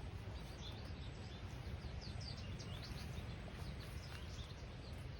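Outdoor ambience: a steady faint rush with songbirds chirping, many short high chirps scattered throughout.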